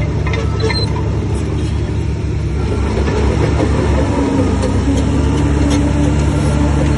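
Heavy earthmoving diesel engine running steadily, with scattered light metallic clicks and clanks. The engine grows a little louder about three seconds in.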